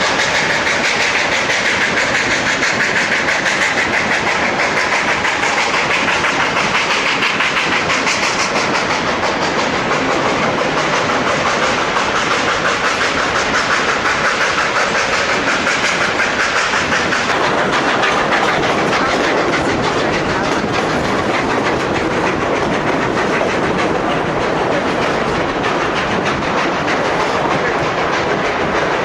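A Durango & Silverton narrow-gauge train running steadily. Its car wheels keep up a continuous rumble and clatter on the rails, which swells and eases a little as it goes.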